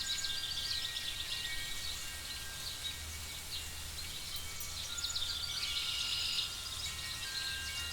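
Layered fantasy night-forest ambience: repeated chirping calls over a low steady rumble, with thin sustained high tones ringing in the background. The chirping grows denser about five to six seconds in.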